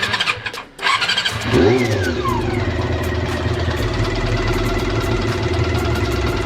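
Honda CB400 Super Four inline-four engine cranking on the electric starter in two short goes, catching about a second and a half in with a quick rev that rises and falls, then settling into a steady idle. The engine has a top-end noise that the owner puts down to valve clearance needing shims.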